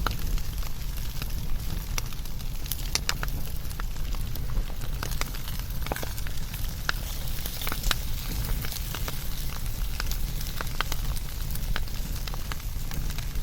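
Wood fire burning and crackling: frequent irregular sharp pops and snaps over a low, steady rumble of the flames.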